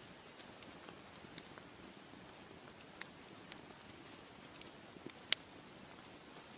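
Wood fire crackling: a soft steady hiss with scattered sharp pops and snaps, the loudest a little after halfway.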